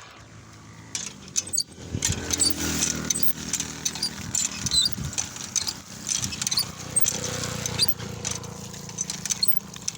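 Water splashing irregularly as mud is washed off feet, over a steady low hum.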